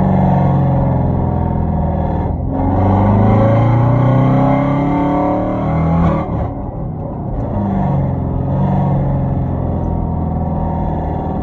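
Hyundai Genesis 5.0 sedan's V8 running through a straight-piped 2.5-inch exhaust with Flowmaster Super 10 mufflers and no catalytic converters, heard on the move. The note climbs as the revs rise from about two seconds in, drops sharply about six seconds in, then settles to a steadier drone.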